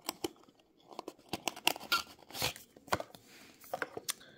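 Packaging of a diecast model car being handled and opened: irregular crinkling, tearing and clicking of cardboard and plastic.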